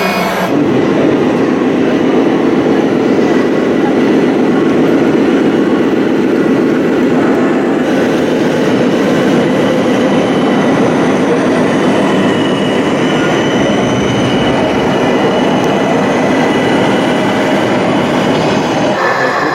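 A radio-controlled model construction machine running steadily, its motor and drive making a busy, even clatter. The sound starts about half a second in and changes near the end.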